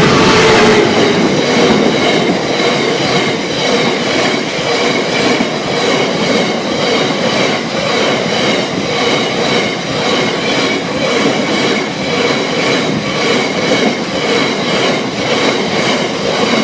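Class 66 diesel freight locomotive 66086 passing at speed, loudest in the first two seconds, followed by a long rake of loaded biomass hopper wagons rolling by with a steady clickety-clack of wheels over the rail joints, about two clicks a second, over a steady ringing rumble.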